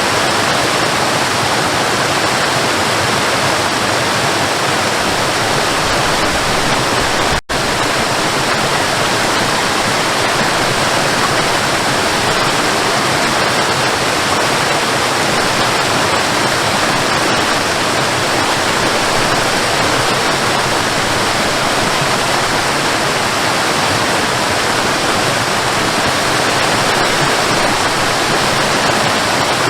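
Waterfall rushing steadily, a dense even wash of falling water, broken by a momentary gap about seven seconds in.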